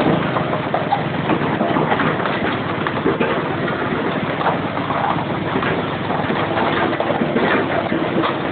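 Heavy tow truck engine running steadily, with irregular rattling over it.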